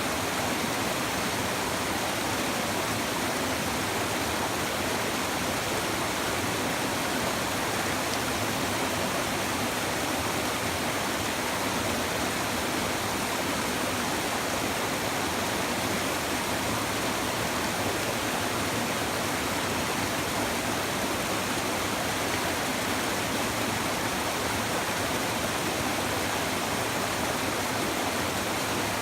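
A shallow river's babbling flow, an even, unbroken water rush.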